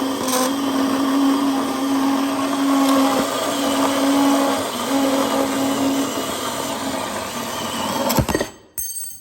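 Electric power tool running steadily under load while cutting a length of all-thread rod, then stopping about eight seconds in with a sharp knock.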